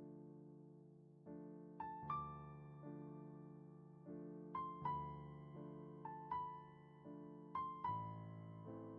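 Slow, soft piano music: held chords under a sparse high melody, its notes often struck in quick pairs and left to fade.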